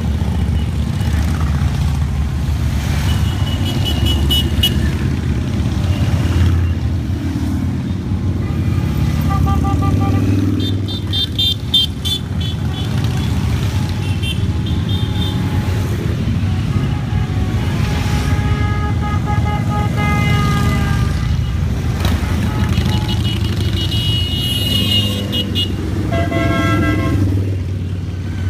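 A long stream of motorcycles riding past, their engines making a dense, steady rumble. Horns toot several times over it.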